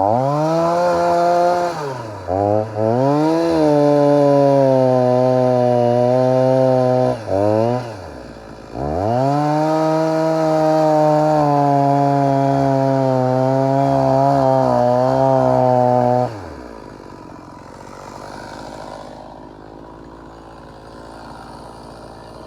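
Stihl MS 290 two-stroke chainsaw with a 20-inch bar running at full throttle, sawing into a dry dead tree. Its pitch sags and climbs back twice, then the saw drops away about sixteen seconds in.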